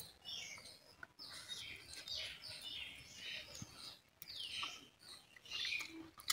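Faint chirping of small birds: many short calls, each sliding downward in pitch, repeating throughout.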